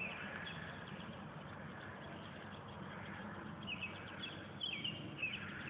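Birds chirping over a faint, steady outdoor background: short high chirps, several in quick succession in the second half.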